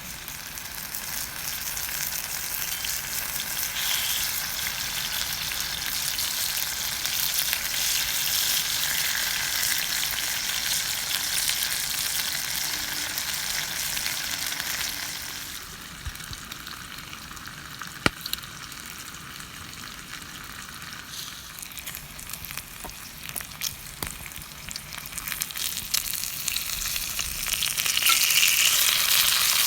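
Food sizzling and frying in a cast-iron skillet over a campfire: a steady hiss that drops suddenly a little past halfway, with a single sharp click soon after, and grows loud again near the end.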